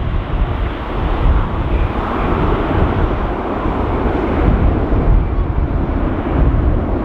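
Jet airliner engine noise, swelling about two seconds in, under heavy wind buffeting on the microphone.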